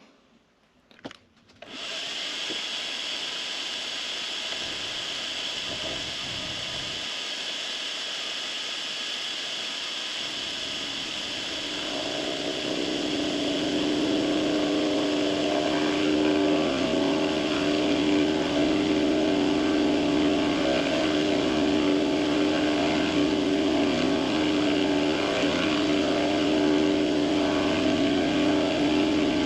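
A small benchtop metalworking machine starts about two seconds in and runs steadily. Around twelve seconds in it grows louder, with a steady hum, as it takes a light finishing cut along the rough edge of an aluminum plate.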